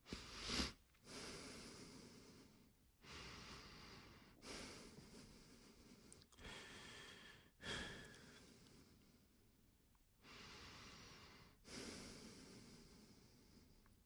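A person breathing, faint: about eight slow breaths in a row, each a second or so long, with short pauses between.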